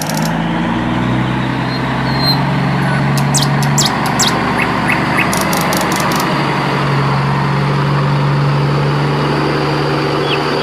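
A vehicle engine running steadily with a low hum, with short bird chirps over it.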